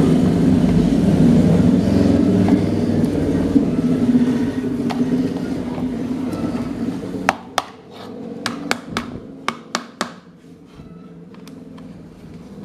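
A steady mechanical hum that winds down and fades over several seconds, then about a dozen sharp clicks and taps in quick succession.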